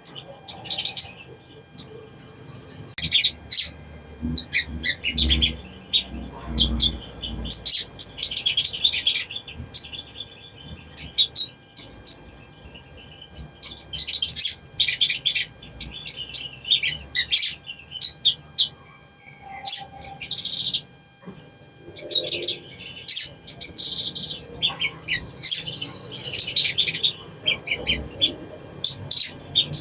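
Sogon (spiderhunter) singing: rapid, high, chattering phrases of sharp chips and trills, each lasting one to three seconds with short pauses between.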